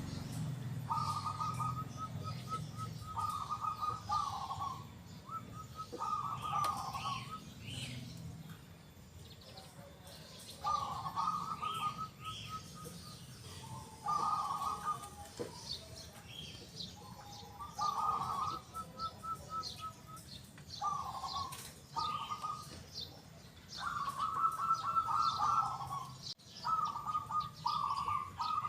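Zebra dove (perkutut) cooing over and over, each rolling, trilled phrase about a second long and following the last after a second or two. Faint, higher chirps of other small birds sound between the phrases.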